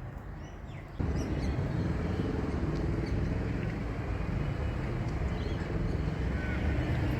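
A motor vehicle engine running steadily, coming in suddenly about a second in, with a few faint bird chirps.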